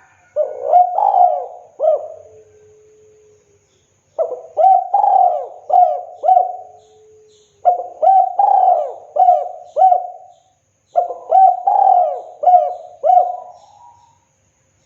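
Spotted dove (tekukur) singing its cooing song: four phrases, each a run of several rounded, bending coos about 3 to 4 seconds apart.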